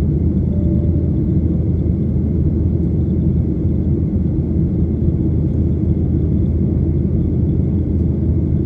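Steady low rumble of jet engines and airflow heard inside an airliner cabin in flight, with a faint steady high whine above it.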